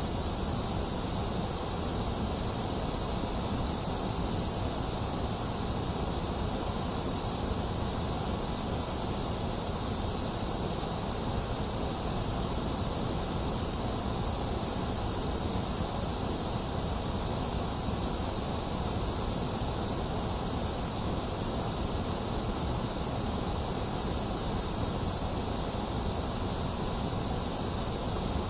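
Box fan running steadily, mixed with the even hiss of rain, unchanging throughout.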